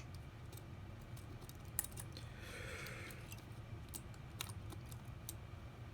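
Scattered light clicks and taps of small hand tools on phone parts, the sharpest about two seconds in, with a soft brief scraping just after it over a steady low hum.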